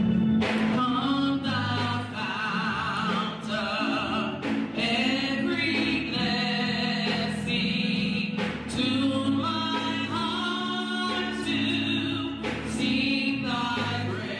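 Music: a choir singing a gospel song, with held notes that waver in vibrato, over an instrumental backing with regular beats.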